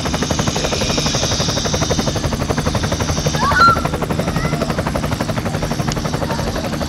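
Toy remote-control helicopter running, its rotors making a rapid, steady chopping buzz. A high whine over it drops away about three and a half seconds in.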